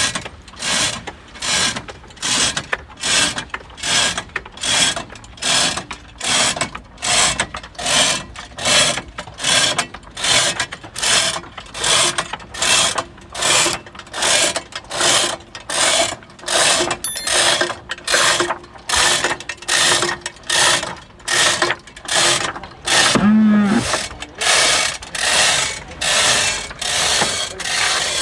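A hand-worked ratchet winch clicks in an even rhythm, about three strokes every two seconds, as it hauls a wooden fishing boat toward the water. A short pitched sound comes about 23 seconds in.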